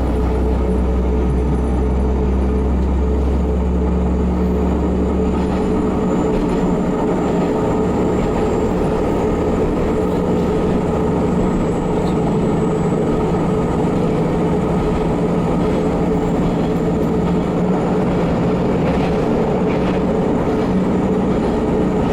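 Diesel railcar heard from inside while under way: a steady engine drone over the running noise of wheels on rails. The deep engine rumble eases about five seconds in.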